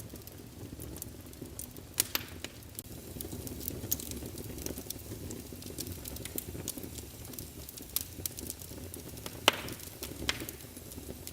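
Small wood fire crackling in a fireplace: a steady low rumble of flames with frequent sharp pops, a few louder ones scattered through.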